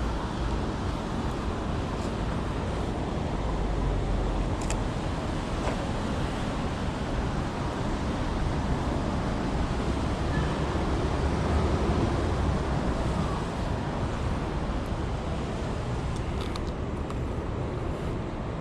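Steady rush of city street traffic noise, with a few faint clicks.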